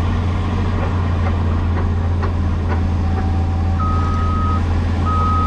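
Cat 336E excavator's diesel engine running steadily with a deep hum. A few light knocks come in the first half. About two-thirds in, a backup alarm starts: steady beeps of under a second each, repeating.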